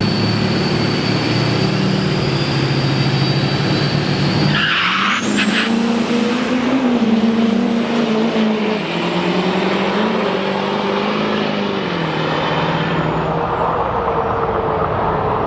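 Turbo-diesel truck engine running hard at the drag strip. About four and a half seconds in, a high turbo whistle rises sharply and holds over the engine drone, then falls away near the end.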